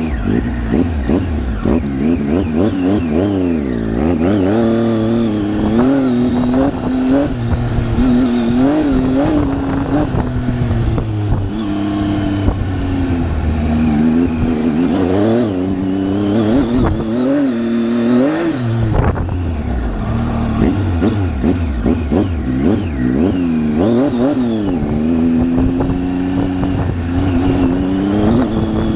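Triumph Tiger 800's three-cylinder engine being ridden off-road, its revs rising and falling again and again as the throttle is worked over slippery, muddy ground.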